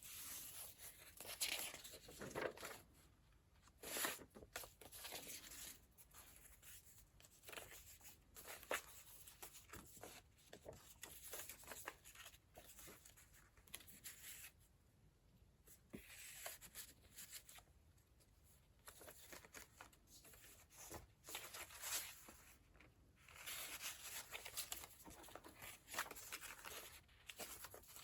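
Pages of a thick handmade paper journal being turned and handled: faint paper rustling and page flips, with a louder flip now and then.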